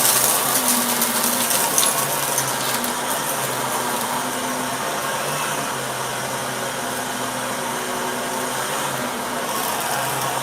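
Shark vacuum cleaner running steadily, its motor hum shifting slightly in pitch as it is pushed around. Crackling and rattling of bits being sucked up in the first couple of seconds.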